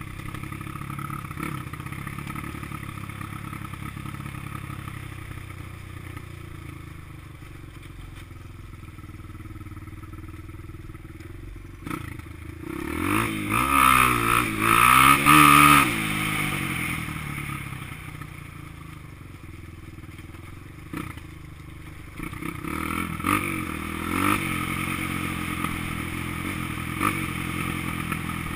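Honda XR200 dirt bike's single-cylinder four-stroke engine running at part throttle on a trail ride. About halfway through, the revs rise and fall hard for a few seconds, and the engine picks up again later on.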